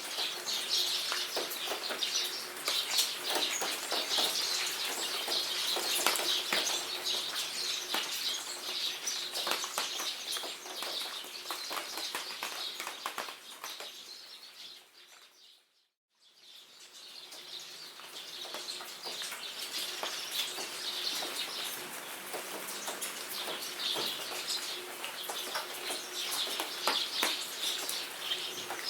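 Rain falling in a jungle with a dense patter of drops, and birds calling and chirping over it. The sound fades out to silence a little past halfway and fades back in.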